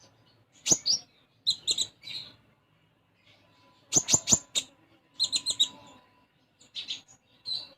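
A caged konin songbird chirping in short clusters of two to four quick, sharp, high notes, its song filled with mimicked house-sparrow-style chirps (isian gereja), the loudest cluster about four seconds in.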